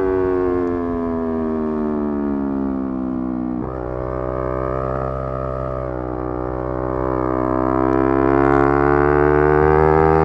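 Yamaha R3's parallel-twin engine under way: revs falling steadily as the bike slows off the throttle, then a sudden jump up in revs about a third of the way in, a downshift, after which the engine pulls with revs climbing slowly to the end.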